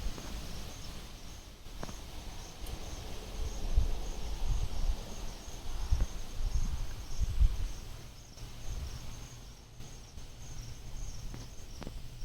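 Wind gusting on the microphone, a low rumble that swells and fades every few seconds, over a steady high chirping of crickets.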